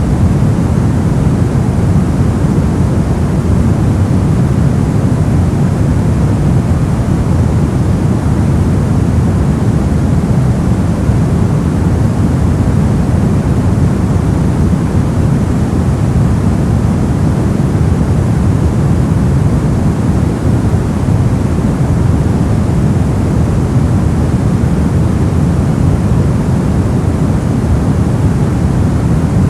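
Continuous white-noise track: an even, unchanging rush of noise, weighted toward the low end so it sounds deep rather than hissy.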